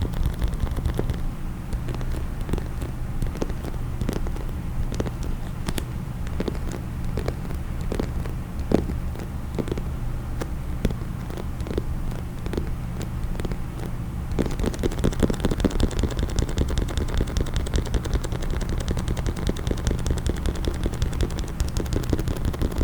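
Fingers tapping a hard case in quick, irregular taps over a steady low rumble. About two-thirds of the way through, the tapping turns denser and faster.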